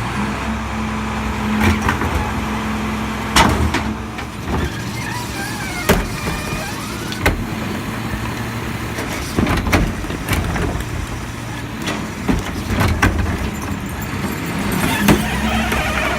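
Mack LEU garbage truck's diesel engine running steadily with a low hum, broken by about a dozen sharp clanks and bangs every second or two.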